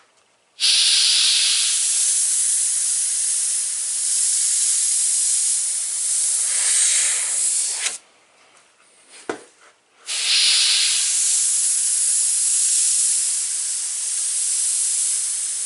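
Airbrush hissing as it sprays paint in two long passes: the first starts abruptly just after the start and runs about seven seconds, then after a pause of about two seconds the second starts abruptly and runs on.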